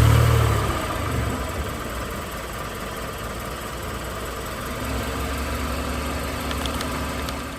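Car engine running steadily just after starting. It is louder for the first second, then settles, and grows a little stronger again about five seconds in.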